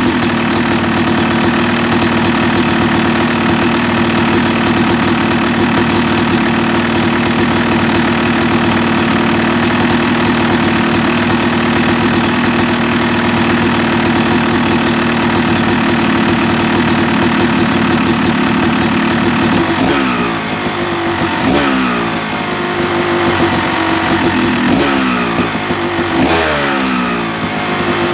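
Yamaha YZ250 two-stroke dirt bike engine, freshly rebuilt and bored to 270cc, running at a steady held speed for about twenty seconds, then revved up and back down several times in quick succession.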